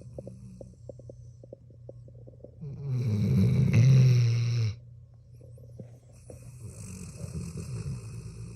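A sleeping dog snoring: one loud, drawn-out snore about three seconds in, lasting about two seconds, with softer rattly breathing around it.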